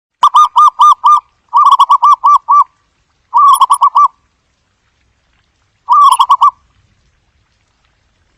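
Zebra dove (Geopelia striata) giving its staccato cooing call: four quick runs of about five to six short, clipped coos each, separated by pauses of up to about two seconds.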